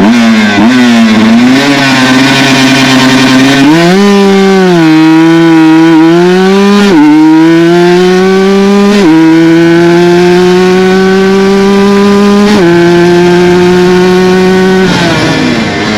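Aprilia RS 125 single-cylinder two-stroke with an Arrow full exhaust accelerating hard. The engine note climbs in pitch and drops sharply at each upshift, about five times.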